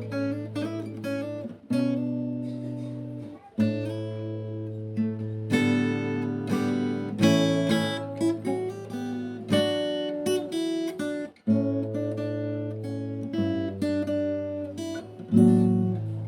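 Background music on acoustic guitar, plucked notes and strummed chords over a steady low bass line.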